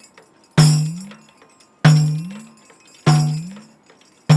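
Headed tambourine (ganjira) played with the din bass stroke, struck four times at an even pace, about one stroke every second and a quarter. Each stroke gives a jingle ring and a deep drum tone that bends upward in pitch as the fingertips squeeze the skin.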